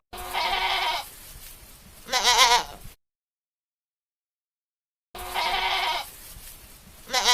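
Sheep bleating: a short steady call, then a longer quavering bleat. After about two seconds of dead silence the same pair of calls plays again.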